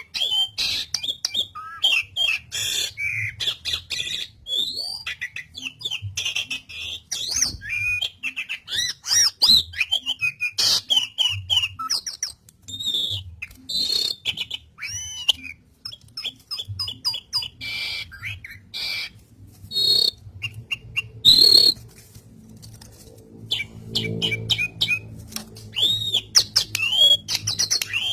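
Asian pied starling (jalak suren) singing in full voice: a fast, varied stream of gliding whistles, chirps and harsh squawky notes, pausing briefly about three quarters of the way through before resuming.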